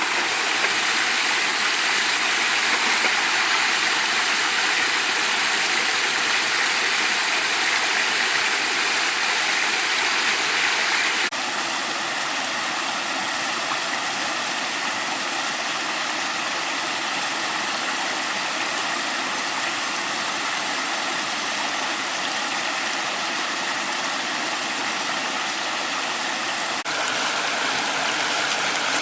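Steady rushing of flowing water, a constant hiss-like wash that drops a little in level abruptly about 11 seconds in and comes back up abruptly near the end.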